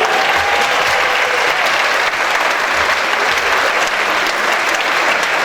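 Audience applauding steadily, a dense sound of many hands clapping at the end of a performance.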